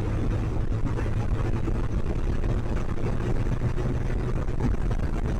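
Sport motorcycle engines running, a steady engine sound with most of its weight low in pitch.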